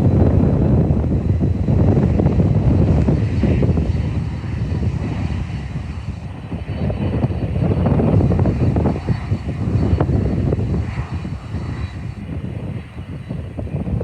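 Boeing 767 freighter's jet engines at takeoff thrust: a loud, deep rumble that slowly fades.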